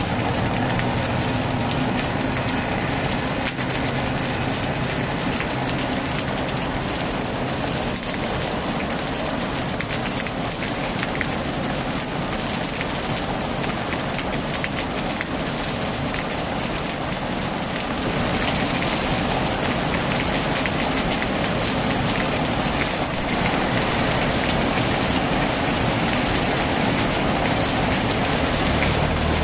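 Heavy rain drumming steadily on a tin roof, a dense patter of drops that grows a little heavier about two-thirds of the way through.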